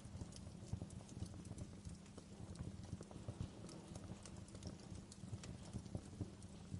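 Wood fire in a fireplace giving a steady crackle: small, irregular pops and snaps scattered over a low rumble of the burning logs.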